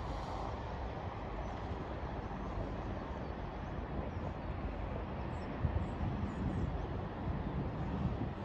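Distant rumble of an approaching freight train hauled by a VL11 electric locomotive, heard as a steady low noise that swells in the second half, with a few faint high chirps around the middle.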